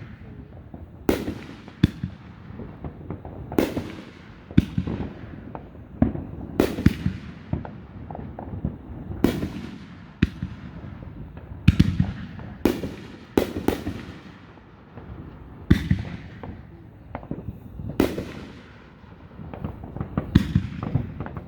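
Aerial fireworks display: shell bursts going off every one to two seconds, each sharp bang trailing off in a rumbling echo.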